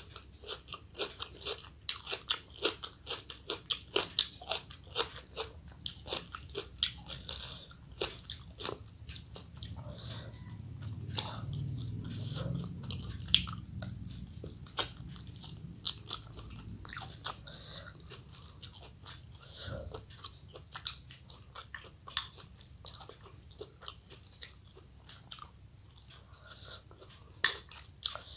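A person chewing and biting food close to the microphone, with many short, crisp crunches, thickest in the first half. A low hum swells and fades between about ten and fifteen seconds in.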